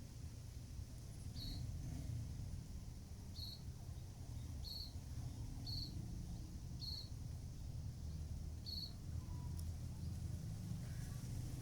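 Six short high-pitched chirps about a second apart, over a low steady rumble.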